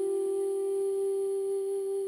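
Female singing voice holding the final note of a slow ballad, one steady, nearly pure tone with a faint high shimmer.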